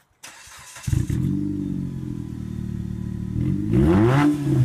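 Dodge Caliber's four-cylinder engine being cranked and started with its straight pipe removed, the exhaust open at a short stub under the car. It catches about a second in and settles into a loud idle, then gets one quick rev that rises and falls near the end.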